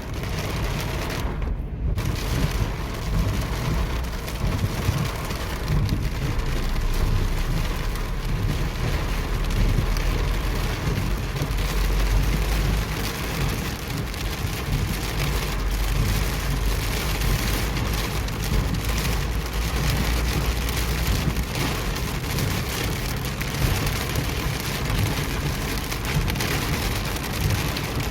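Heavy rain falling and pattering on surfaces, a dense hiss of countless drops with a steady low rumble underneath.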